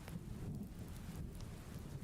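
Heavy rain hissing steadily over a low, continuous rumble of thunder.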